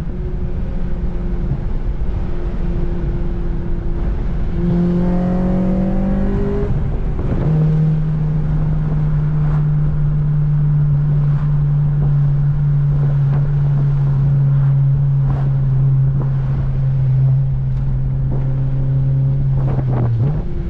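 An 8th-generation Honda Civic Si's 2.0-litre four-cylinder engine and exhaust while driving. It holds a steady pitch, climbs about five seconds in, drops at a gear change around seven seconds, then runs at a long steady cruise before dipping again near the end.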